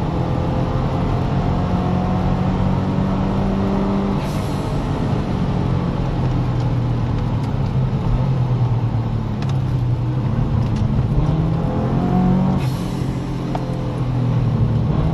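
Subaru Impreza's flat-four engine heard from inside the cabin at speed on a wet track, its pitch dropping about four seconds in as the driver lifts. It runs steadily, then falls again as the car slows hard for a corner, and starts to pick up near the end.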